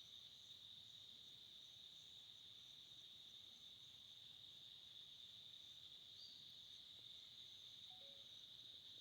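Faint, steady chorus of crickets chirping, a continuous high trill.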